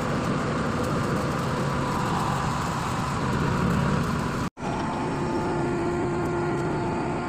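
Hydraulic static pile driver (HSPD) running steadily, its engine and hydraulic power pack droning with faint steady tones. The sound cuts out for an instant about four and a half seconds in, then carries on the same.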